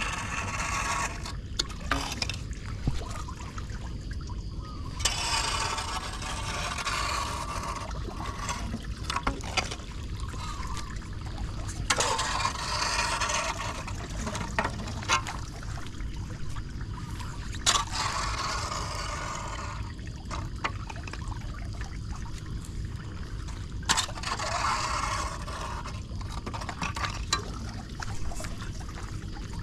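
Floodwater trickling and pouring into a storm drain over a steady low rumble, with louder splashing stretches every few seconds and scattered sharp knocks.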